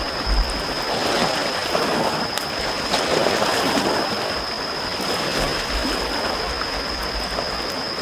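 Small sea waves washing gently on the shore, with a few sparse pops from a wood campfire about two and a half and three seconds in. A thin steady high tone runs under it all.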